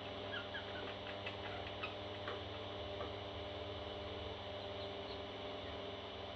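Baby parrots giving faint, short chirps over a steady electrical hum; the chirps come mostly in the first three seconds, with a few more near the end.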